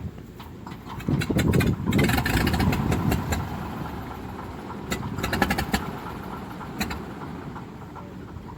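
Floatplane's propeller engine running, heard across the water. It swells about a second in and then eases off gradually, with a few sharp clicks in between.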